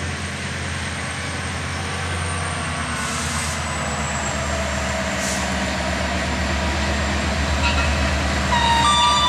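Diesel train's engine running with a steady low rumble, growing slowly louder. A horn starts sounding near the end, a chord of steady tones.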